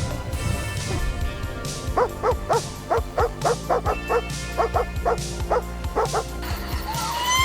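A dog barking in a fast run of short, sharp barks, starting about two seconds in and going on for some four seconds, over background music.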